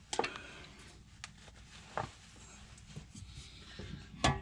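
A few light clicks and knocks of metal parts being handled, as an oil filter is worked loose and manoeuvred out of a tight engine bay, with a louder knock near the end.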